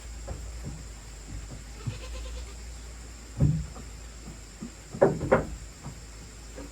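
Goat bleating in short calls: one about three and a half seconds in, then two louder calls close together about five seconds in.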